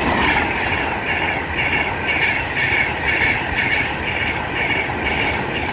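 Class 390 Pendolino electric train passing through the station at speed: a loud, steady rush of wheels on rail with a regular pulse about two to three times a second.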